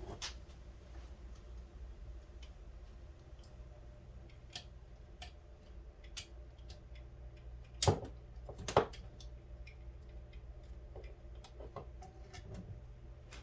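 Scattered light clicks and taps of tools and small parts being handled, with two louder knocks about 8 and 9 seconds in, over a steady low hum.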